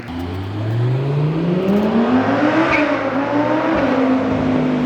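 Ford Mustang V8 engine revving up, its pitch climbing steadily for about two and a half seconds. It dips briefly, rises again, then drops and holds lower near the end.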